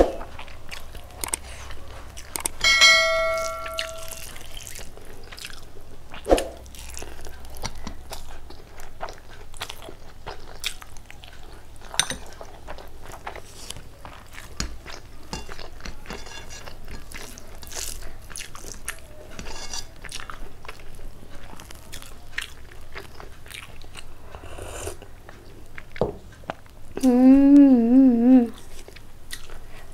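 A person chewing and eating rice and curry, with small wet mouth clicks and smacks throughout. A brief ringing tone about three seconds in, and a short hummed, wavering voice sound near the end.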